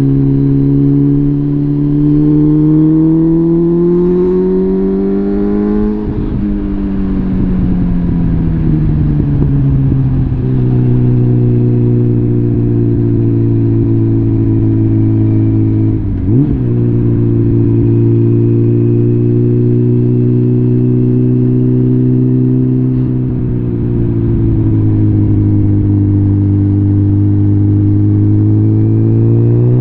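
Suzuki GSF650 Bandit's inline-four engine breathing through a full Arrow exhaust system, riding along. The revs climb for about six seconds, drop away, then hold steady at cruise with a quick short blip about halfway through, and climb again near the end.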